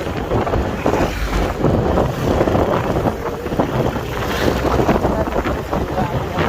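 Loud wind buffeting the microphone of a rider on a moving motorcycle, with a low rumble of motorcycle and road noise underneath.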